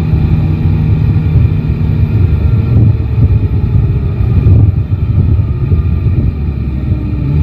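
Yamaha Tracer 9 GT's inline three-cylinder engine running on the move, its pitch shifting a little, under a heavy low rumble of wind on the microphone.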